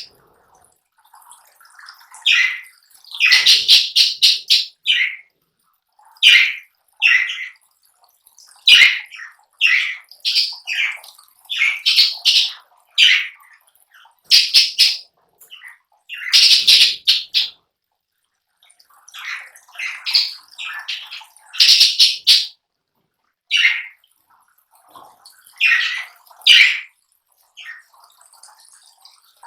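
Lovebirds making short, shrill chirps and squawks, mixed with the crackle of palm leaves being torn and shredded, coming in irregular bursts every second or so.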